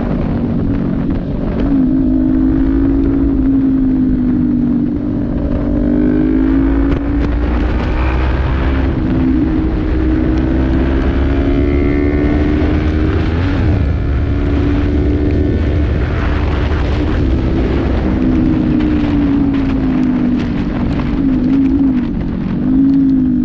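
Kawasaki Z400 parallel-twin engine running under throttle at highway speed, heard from the rider's seat. Its pitch holds fairly steady, then dips and recovers a few times as the throttle changes. Wind noise runs underneath.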